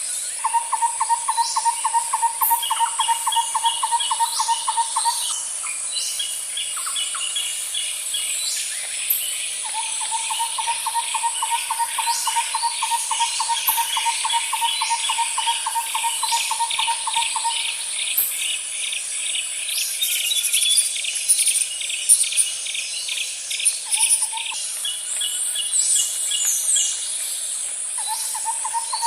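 Outdoor ambience of calling insects and birds. A steady high-pitched insect buzz runs under it all. Over it come long, rapidly pulsed trills that start and stop every few seconds, quicker higher pulsing, and short chirps.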